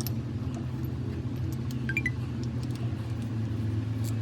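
Steady low mechanical hum with a few light clicks over it.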